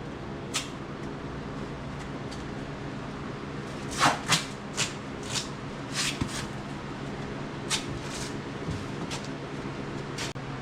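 A steady low machine hum, with a run of short scraping or rustling strokes about four to eight seconds in.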